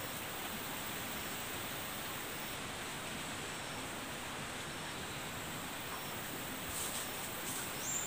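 Steady outdoor background hiss with no distinct calls, and a few faint high ticks near the end.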